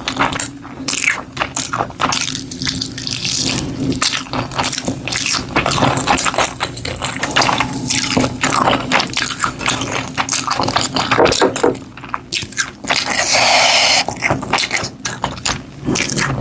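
Close-miked eating sounds: irregular wet mouth clicks, smacking and scraping of chewing. A denser hiss-like noise lasts about a second near the end.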